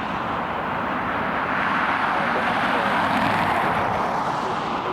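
Jet aircraft engines running, a steady, even rushing noise.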